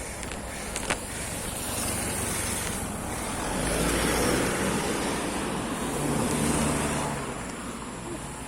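A motor vehicle passing on the road, its engine and tyre noise rising to a peak midway and fading away near the end.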